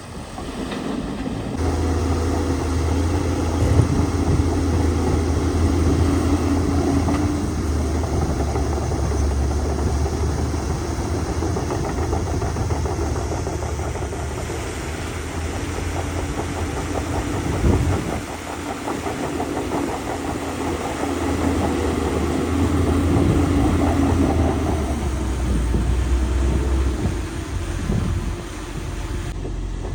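Heavy diesel engine of earthmoving machinery working under changing load, its low drone shifting pitch several times. There is a single sharp clunk about 18 seconds in.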